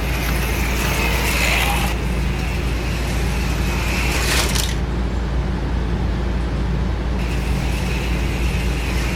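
Small electric motors of HO slot cars (AFX Super Racing Turbo+) whining around the track, the pitch rising and falling with speed. The whine cuts out about five seconds in and comes back a couple of seconds later, over a steady low hum.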